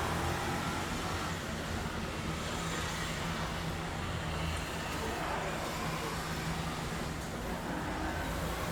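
Steady city street traffic heard from above: a continuous rumble of car and bus engines with a low hum and tyre noise.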